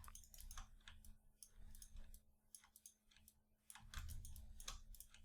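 Faint clicks of a computer mouse and keyboard keys, scattered irregularly with a short lull about three seconds in, over a faint steady hum.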